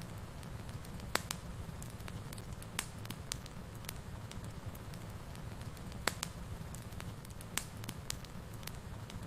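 Wood fire burning in a fireplace: a steady low rumble of flames with irregular sharp crackles and pops, a few louder pops among them.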